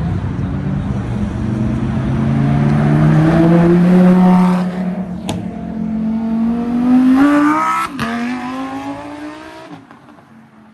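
A car's engine accelerating hard through the gears. The engine note climbs, drops sharply at an upshift about five seconds in, climbs again, shifts once more about eight seconds in, then fades as the car drives away.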